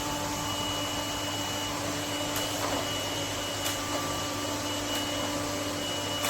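Lefant M1 robot vacuum running: a steady motor whir with a few faint ticks.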